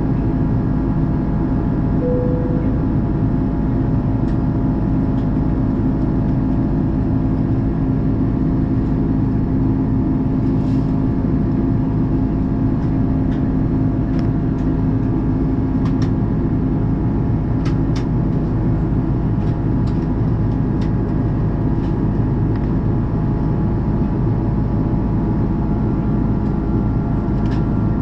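Steady engine and airflow noise inside the cabin of an Airbus A330-343, whose engines are Rolls-Royce Trent 700s. A low hum in the noise fades out about halfway through, and a few faint ticks come later on.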